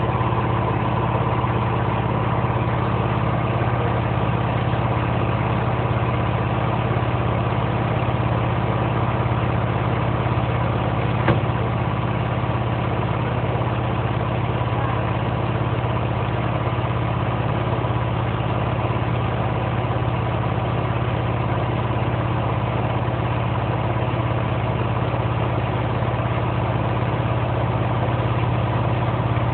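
A 5 hp Silver Bullet air compressor running with a steady, unchanging hum. There is a single sharp click about eleven seconds in.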